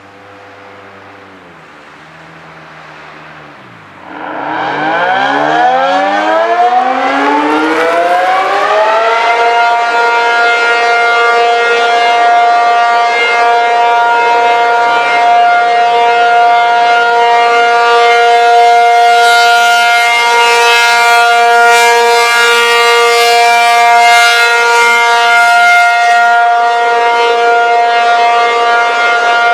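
ACA P-50 dual-tone rotating warning siren starting up. After faint low tones, it winds up sharply about four seconds in, its two-note chord rising in pitch for about five seconds, then holding a loud, steady dual-tone wail.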